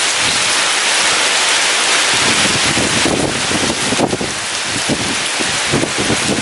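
Heavy rain pouring down in a steady hiss, with gusty storm wind rumbling low underneath, swelling and easing in waves.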